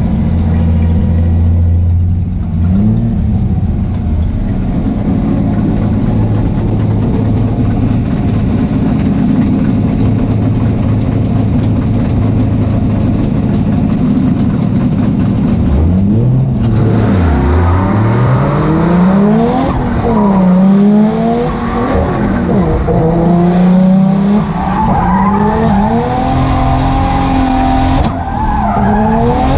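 Nissan 240SX's swapped 1JZ inline-six engine running hard in a drift run on a wet track: held at one steady pitch for about sixteen seconds, then revving up and down over and over, with a loud hiss joining in.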